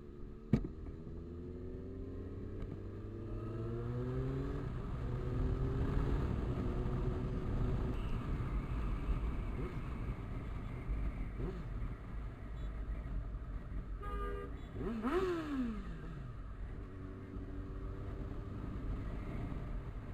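Motorcycle engine under way, rising in pitch as it accelerates over the first few seconds, then running steadily at speed, with a short horn toot about fourteen seconds in.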